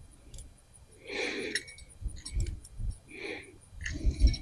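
Fishing reel drag being set: line is pulled off against the drag in short whirring pulls, about two seconds apart, with a few clicks and handling bumps between them.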